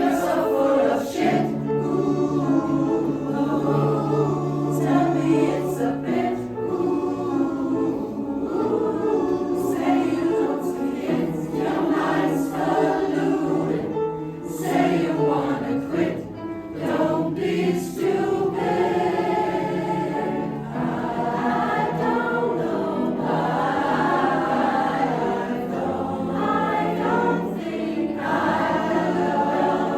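Choir singing a vocal arrangement in several-part harmony, with held low notes under moving upper voices.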